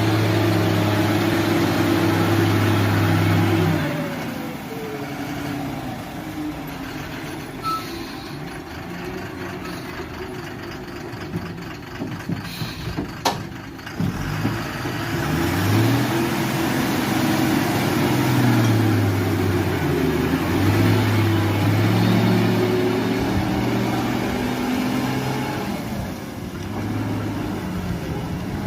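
Diesel engine of a fully loaded Eicher 12-wheeler truck running. It holds a steady note at first, drops after about four seconds, then rises and falls in pitch several times as it is revved. A few sharp clicks come around the middle.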